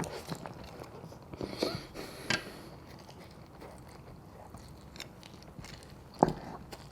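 Close-miked eating: chewing and wet mouth noises with small clicks, a brief flurry of them about one and a half to two and a half seconds in. One louder thump comes near the end.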